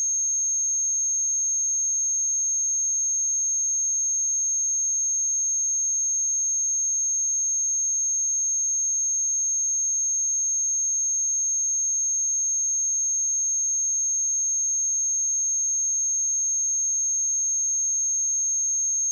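A pure 6437 Hz sine-wave test tone, one steady high-pitched whistle held unchanged at constant loudness.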